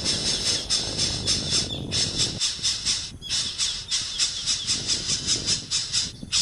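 A nestling bird giving a rapid series of short, high-pitched calls, about four to five a second, broken by a few brief pauses.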